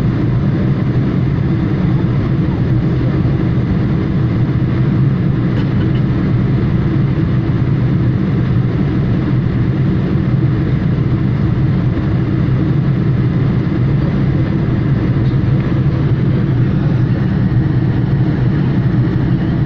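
Steady drone of an airliner's jet engines and rushing air heard inside the passenger cabin, heaviest in the low range and holding an even pitch throughout.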